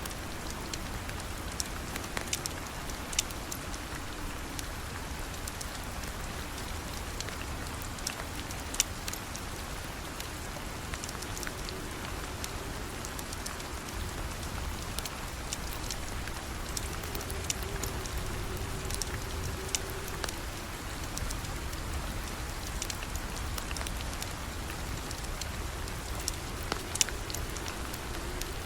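Steady rain falling, with scattered sharp ticks every second or two.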